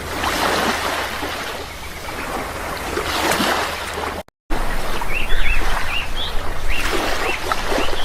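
Sea waves washing in and out in slow swells. The sound cuts out briefly a little over four seconds in; after the gap, birds chirp repeatedly over the surf.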